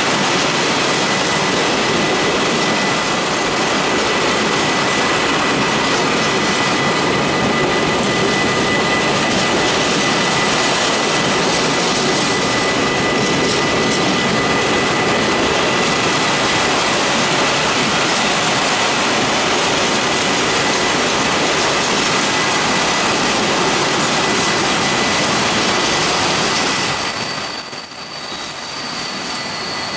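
Freight train of chemical tank wagons rolling past, a steady loud noise of wheels on the rails with a faint high steady tone over it. The noise eases off near the end.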